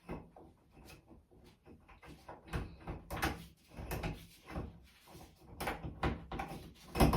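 Rubber plunger being pumped in a clogged bathtub drain, with a quick series of thumps and wet plunging knocks that grow stronger after about two and a half seconds, as she works to clear the clog.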